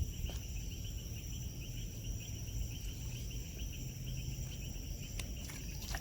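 Evening chorus of insects such as crickets: steady high-pitched trilling with rapid chirps repeating several times a second, over a low rumble.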